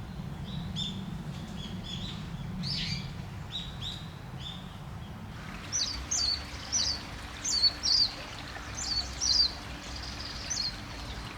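Small birds chirping: short calls in the first half, then a run of sharp, loud, falling chirps about twice a second from about halfway. Under them a steady hiss of running spring water comes in about halfway.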